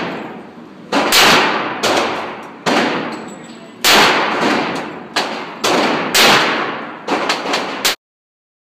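A string of about ten handgun shots at a shooting range, irregularly spaced over some seven seconds, each ringing on briefly after the crack; the sound cuts off abruptly near the end.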